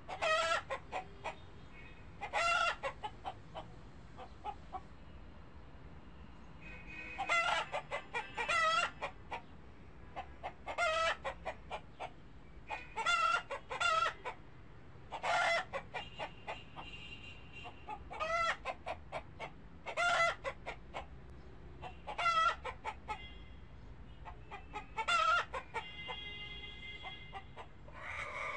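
Repeated bird calls: a burst of short, pitched notes about every two seconds, with a fainter, steadier tone in some of the gaps.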